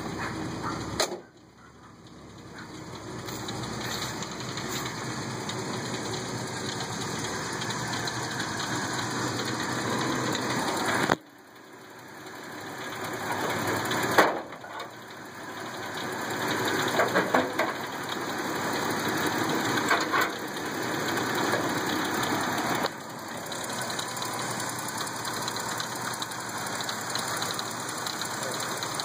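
1978 Ford Fairmont wagon's engine running steadily at idle, heard close up, with a few sharp knocks around the middle.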